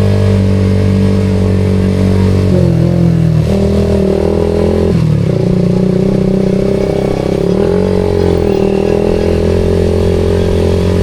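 Suzuki GSX-R150's single-cylinder engine running through a SARP aftermarket exhaust, holding a steady note that shifts and dips in pitch a few times.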